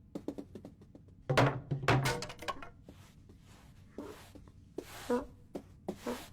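Cartoon sound effects: a rapid run of clicks and knocks, then heavier thuds about a second and a half to two and a half seconds in, followed by a few short pitched sounds.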